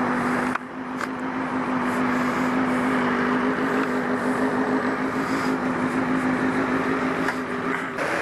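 Honda CBR954RR inline-four engine pulling at a steady pitch under heavy wind rush while riding. There is a brief drop about half a second in, like a gear change or a throttle lift, and the engine pitch jumps higher near the end.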